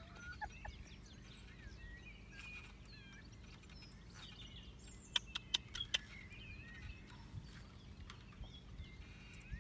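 Faint birdsong, many short chirps, with a quick run of four or five sharp clicks about halfway through.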